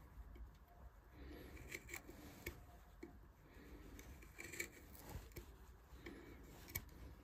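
Hand carving tool cutting and scraping wood in faint, irregular strokes, with a few sharp clicks as the blade bites.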